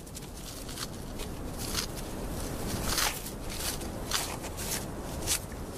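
Irregular small crisp clicks and crunches over a steady low hiss: desert ants cutting a dead scorpion's body into pieces.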